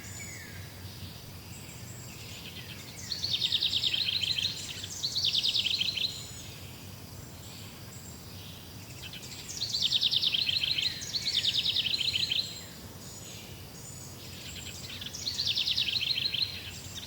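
Forest songbirds singing: a loud, rapid trill of repeated notes comes in bouts of about a second and a half, often two close together, every few seconds. Fainter high chirps sound between the bouts over a faint steady rumble.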